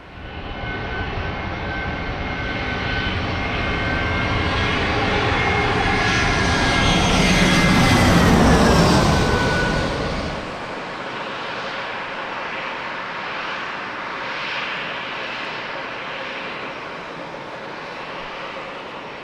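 Airbus A320 jet airliner passing close by on landing: the engine sound builds to its loudest about eight seconds in, with a whine that drops in pitch as the jet goes past, then settles into a steady roar.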